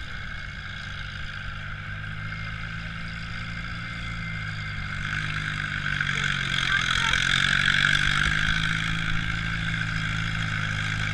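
A pulling vehicle's engine working hard under load on a pull. It revs up and grows louder about halfway through, then holds at a steady high pitch.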